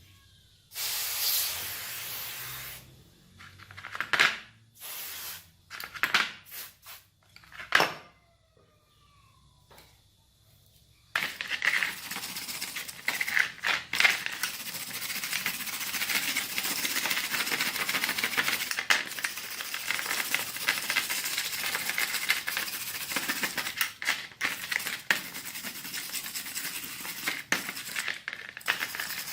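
Metal being worked by hand during a rusty-plier restoration: a few short hissing bursts with pauses between them, then from about eleven seconds in a continuous scraping with small metallic clinks.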